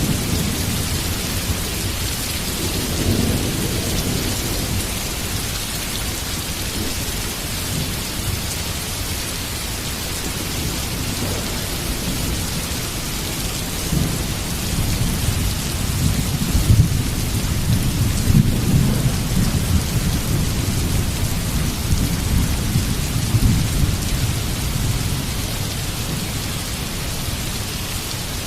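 Heavy rain falling steadily with a constant hiss, while thunder rumbles low in long rolling swells, strongest from about halfway through until near the end.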